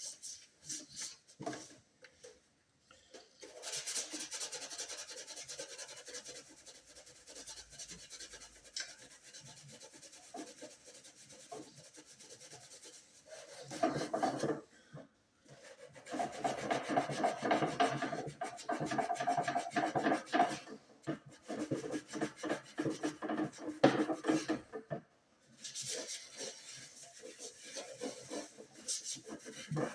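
Quick, repeated rubbing strokes on a hard surface, in long spells broken by a few short pauses.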